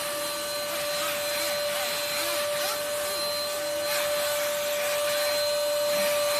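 Russell Taylors V5 cordless vacuum cleaner running steadily: a constant motor whine over the rush of air.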